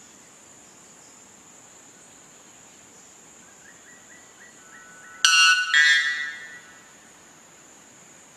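A bird's loud, harsh call in two quick parts a little past five seconds in, over a steady high-pitched insect sound and faint stepped notes just before it.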